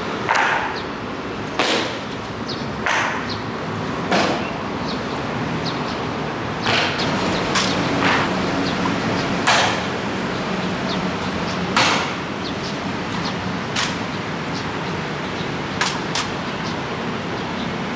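Sharp clacks of a navy honor guard's ceremonial boots striking the pavement. For the first few seconds they fall at a slow, even marching pace of about one step every second and a quarter; after that they come irregularly, sometimes two close together. A steady background hiss runs underneath.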